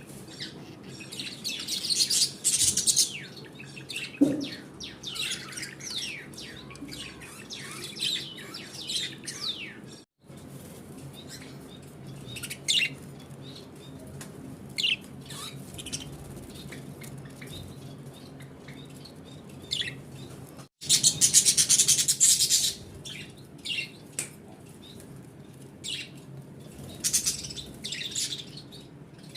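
Pet parrots chirping and calling in quick sweeping bursts, with a louder, dense stretch of calls about two-thirds of the way through.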